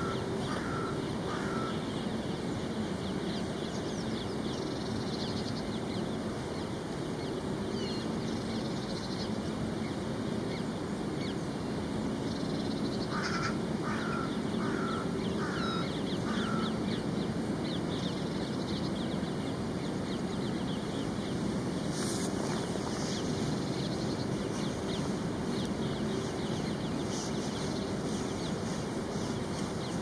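A bird calling in two runs of about five short harsh calls, roughly two a second: one at the start and one about halfway through. Faint higher chirps come and go over a steady low background hum.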